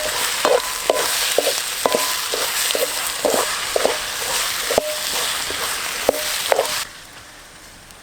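Food sizzling as it fries in a pan, stirred with a utensil that knocks and clinks against the metal about twice a second. The sizzling and stirring cut off abruptly near the end.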